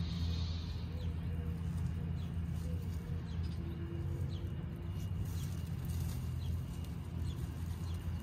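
Small birds chirping, with repeated short rising chirps, over a steady low rumble.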